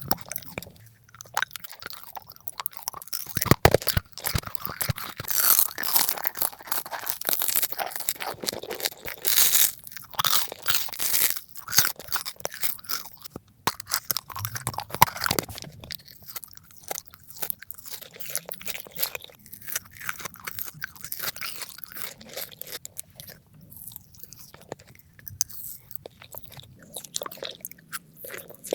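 Close-miked bites and chewing of crunchy food: dense spells of sharp crunches and crackles, coming and going in spells.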